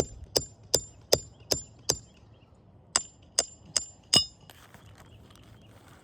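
Hammer blows on metal at about two and a half a second, each with a short ring: six strikes, a pause of about a second, then four more. This fits roofing work, pulling nails and lifting shingles.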